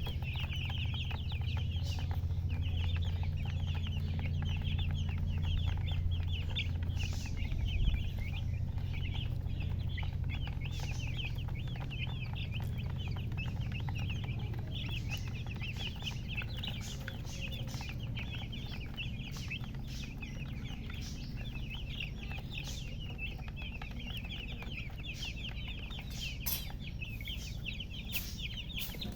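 Many baby chicks peeping nonstop, a dense overlapping stream of short high chirps, over a steady low hum.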